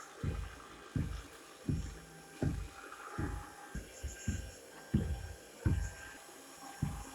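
A series of irregular dull, low thumps, about one or two a second.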